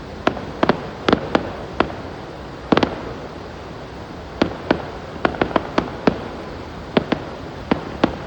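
Fireworks going off: about twenty sharp bangs at irregular intervals, some in quick clusters of three or four, over a steady background hiss.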